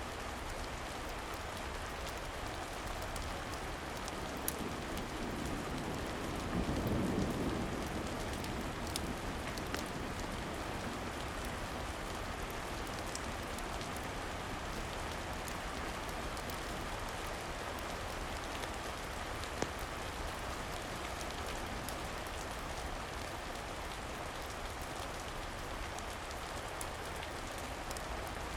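Steady rain falling, an even hiss with scattered small sharp clicks; a brief low swell rises and fades about a quarter of the way through.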